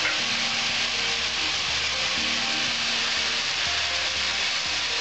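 Mixed vegetables frying in oil in a karahi: a steady, even sizzle.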